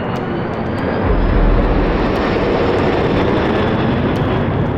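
Firefighting aircraft flying low overhead: a loud engine roar that swells about a second in and holds, with a faint whine slowly rising in pitch.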